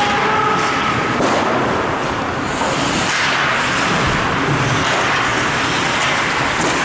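Steady noisy din of an ice-hockey arena crowd, with a few faint sharp clicks.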